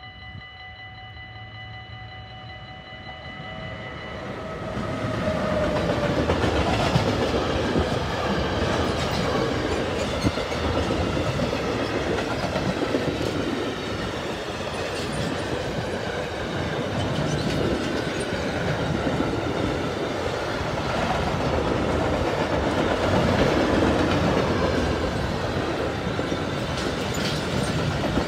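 A level-crossing warning bell rings steadily for the first few seconds. Then a long freight train of boxcars and gas tank cars arrives and passes close by, loud and continuous, its wheels clattering rhythmically over the rail joints and the crossing.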